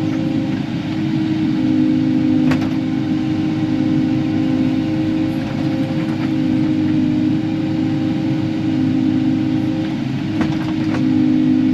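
Kubota KX080-4 excavator's diesel engine running steadily while the arm is worked, heard from the cab. A sharp click about two and a half seconds in and a couple more near the end.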